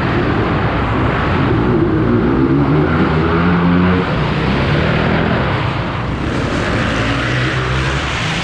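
Dirt bike engines running and revving loudly on an indoor motocross track, rising and falling in pitch as riders go through the throttle.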